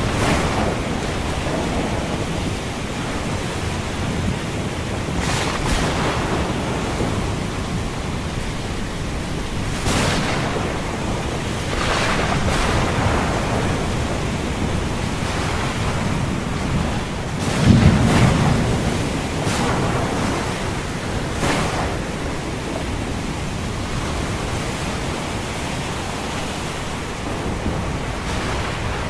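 Steady rushing of ocean surf and rain, with several brief surges as waves break. About two-thirds of the way through comes a loud low rumble of thunder, the loudest moment.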